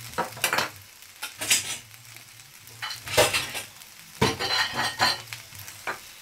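Fried rice with prawns and broccoli sizzling in a non-stick frying pan, with irregular bursts of crackling over a steady low hum.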